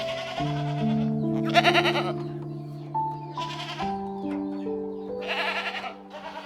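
A sheep bleating three times over soft, slow piano music.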